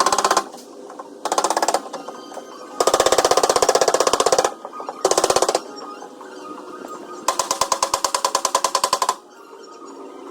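Rapid strings of metal taps on a Ford Ranger's sheet-metal door panel during dent repair, about ten taps a second with a ringing tone. They come in five bursts of up to about two seconds each, the longest two starting about three seconds and seven seconds in.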